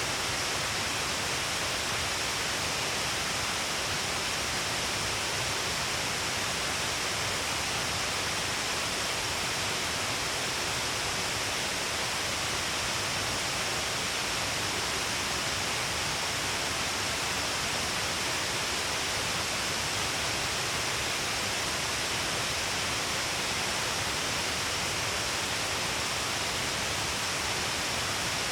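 Waterfall of many streams pouring down a long cliff face, a steady unbroken rush of falling water with heavy spray.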